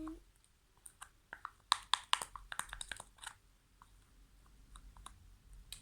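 Slime being mixed and squished, giving a quick run of small sticky clicks and pops, thickest a second or two in and then thinning out.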